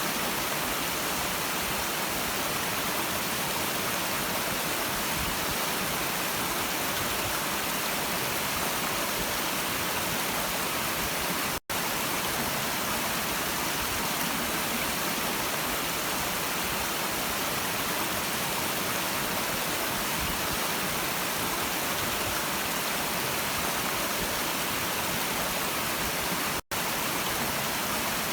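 Steady rushing of a stream's flowing water, an even hiss with no single events. It cuts out completely for an instant twice: about twelve seconds in and near the end.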